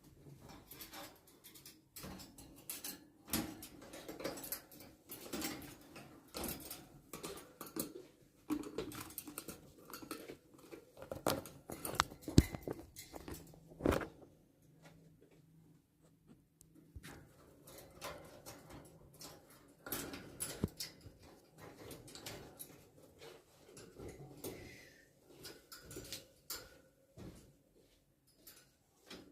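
Irregular light taps, clicks and scuffling from pets moving about, with a couple of sharper knocks near the middle.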